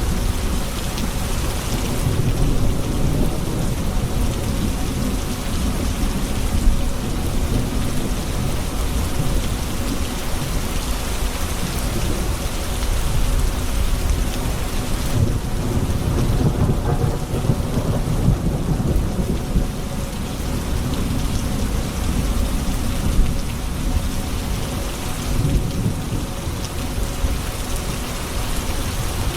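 Steady heavy rain with thunder rolling low beneath it, the rumble swelling a few times.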